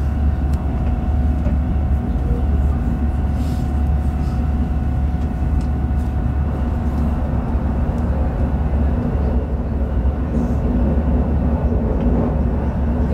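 Interior running noise of an X60B electric commuter train travelling at speed: a steady low rumble with a constant hum over it, heard inside the passenger car.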